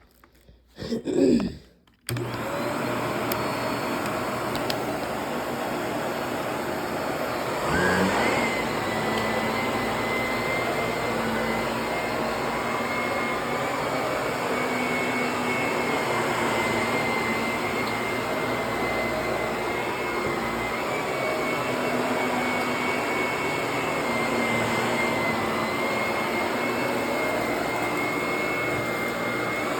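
Vacuum cleaner switched on about two seconds in, after a brief loud sound, then running steadily over the carpet; about eight seconds in the note lifts and a thin high whine joins it.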